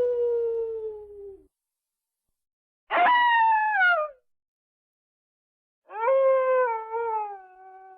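Canine howling in three parts. The first is the tail of a long howl sliding slowly down in pitch. The next two are shorter howls about three seconds apart, each rising sharply and then falling away, and the last one wavers as it falls.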